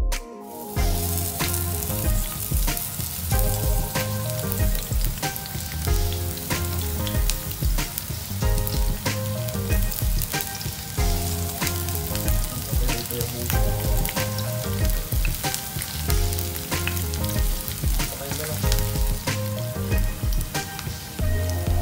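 Sliced onions and minced garlic sizzling in hot oil in a frying pan while being stirred with a spatula. The sizzle starts suddenly about half a second in. Background music with a steady bass beat plays over it.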